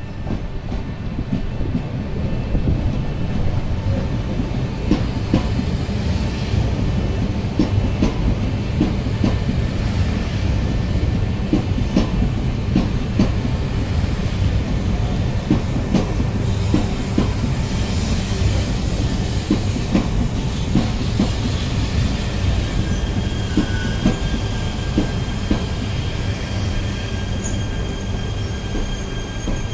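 Yamagata Shinkansen train passing close by: a steady low rumble of the cars rolling over the track, with the wheels clicking sharply over rail joints again and again. Thin high tones join in about two-thirds of the way through.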